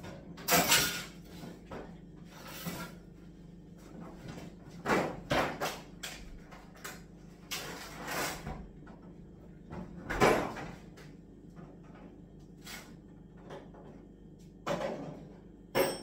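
Irregular clatters, knocks and rustling of hands rummaging through tools and storage for a spanner. There are about eight separate short noises at uneven intervals, with the loudest near the start and about two-thirds of the way through.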